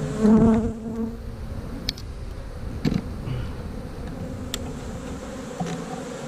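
Honey bees humming steadily at an open, crowded hive, with a few sharp clicks about two, three and four and a half seconds in as a plastic frame is forced down into the box.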